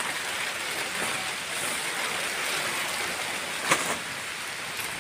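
Heavy rain falling steadily, an even hiss, with one sharp knock a little over halfway through.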